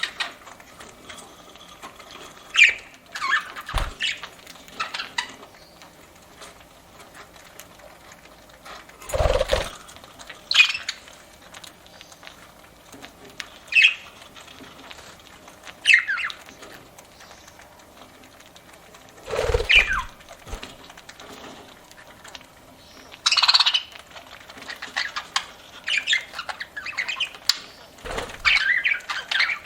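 Pet budgerigars chirping in short, scattered calls, with small clicks as they crack seed. Three louder rustling bursts come about a third of the way in, about two-thirds in and near the end.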